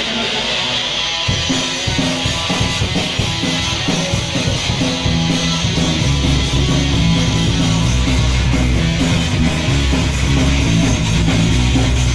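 Punk band playing live: the instrumental intro of a song, led by electric guitar. The full band comes in about a second in, and the bass gets heavier from about six seconds in.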